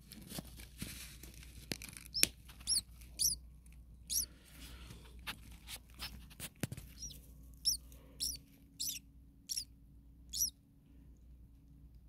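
Starling nestlings giving short high cheeps, about eight of them, mostly in the second half. Underneath is a rustle of dry nest grass with several sharp clicks, loudest in the first half.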